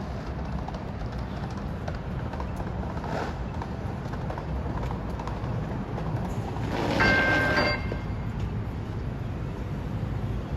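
Metro Rail train running with a steady low rumble; about seven seconds in, a brief high-pitched tone sounds for under a second over a louder rush of noise.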